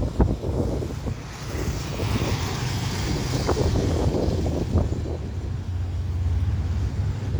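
Wind buffeting the microphone over a steady low rumble, with a hiss that swells and fades in the first half.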